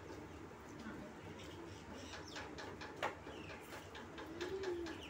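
Quiet eating sounds of people chewing and lip-smacking on mouthfuls of rice and curry taken by hand, a run of small wet clicks. There is one sharper click about three seconds in and a short low hum near the end.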